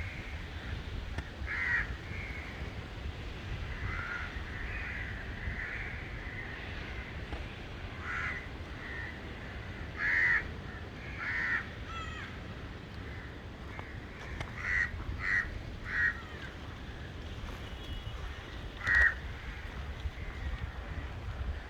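Birds calling: short, harsh, crow-like calls repeated at irregular intervals, loudest about ten seconds in and again near nineteen seconds, over a steady low rumble.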